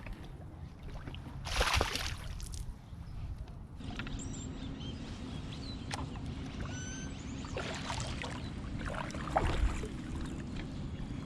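Water sloshing and splashing around a fishing kayak over low wind rumble on the microphone. There is a loud splash about two seconds in and smaller splashes later, and a faint steady low hum starts about four seconds in.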